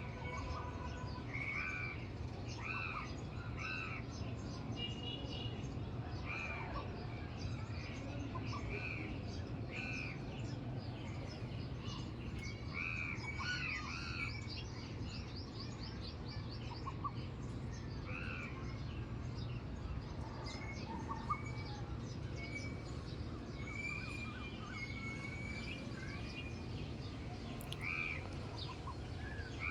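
Several wild birds chirping and calling over a steady low background hum, with short arched chirps throughout and a quick rapid trill about halfway through.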